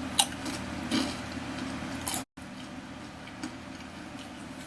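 A few sharp crunches of a Dorito tortilla chip being bitten and chewed in the first two seconds, then the sound cuts out abruptly and only low room hiss remains.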